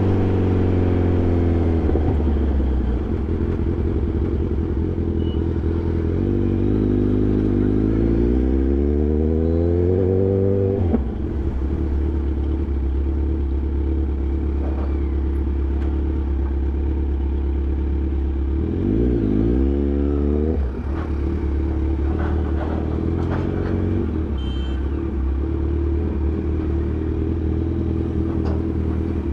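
Kawasaki Ninja 1000's inline-four engine running on the move: the revs fall at first, then twice climb steadily and drop sharply at an upshift, holding steady in between.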